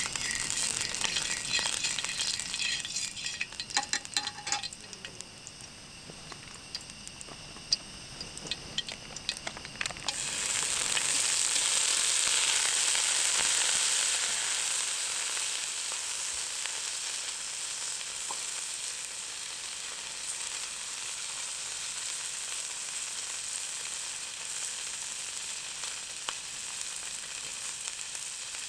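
Food frying in a pan, with clinks and scrapes of stirring at first. About ten seconds in the sizzling jumps up loudly, then eases to a steady sizzle.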